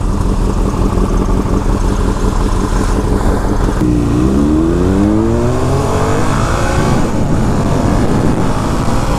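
Motorcycle engine running under steady road and wind noise; about four seconds in it revs up, its pitch climbing for around three seconds as it accelerates, then falls back near the seven-second mark.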